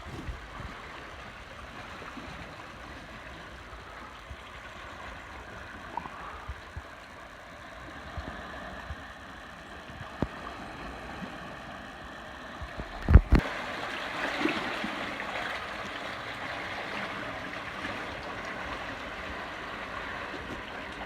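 Sea water washing and gurgling among shoreline rocks. A heavy thump comes about thirteen seconds in, and the rushing is louder after it.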